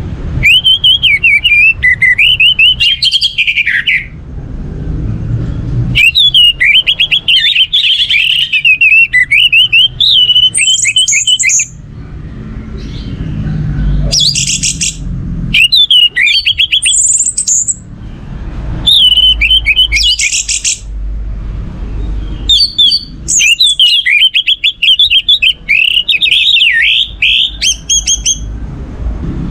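Orange-headed thrush singing loudly in repeated bouts of rapid, varied whistled phrases, with short pauses between bouts.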